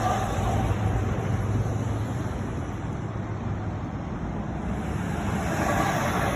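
Road traffic noise with a steady low hum, with vehicles passing near the start and again near the end.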